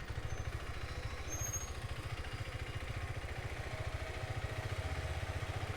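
Motorcycle engine running at low revs: a steady, fast, low pulsing of exhaust beats.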